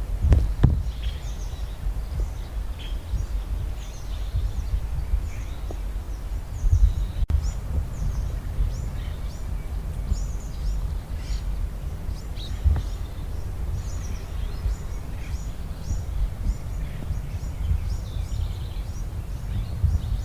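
Small birds chirping over and over, many short high calls throughout, over a steady low rumble, with a few sharp snaps from a campfire.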